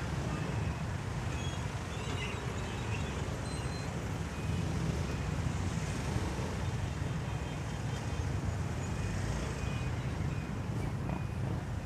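Motorcycle riding in road traffic: a steady low rumble of engine, road and wind noise. In the second half there are faint short high beeps, repeating about once or twice a second.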